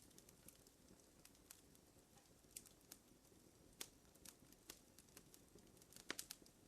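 Wood fire crackling softly, with scattered irregular pops over a low hiss and a quick cluster of louder pops about six seconds in.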